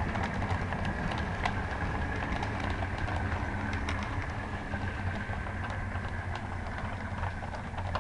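OO gauge model diesel locomotive running on the layout: a steady low motor hum and whine with scattered light clicks, slowly getting quieter.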